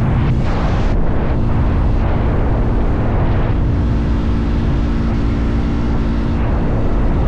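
Motorcycle engine running steadily at cruising speed, a constant low drone with a few held tones, under a steady rush of wind and road noise.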